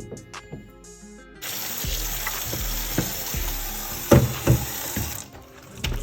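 Water running from a tap, starting about a second and a half in and stopping about a second before the end, with a few sharp knocks near the middle from things being handled in the sink.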